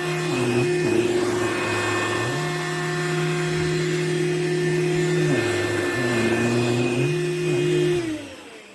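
Powools handheld cordless vacuum running with a steady motor hum that dips in pitch briefly a few times, then is switched off near the end.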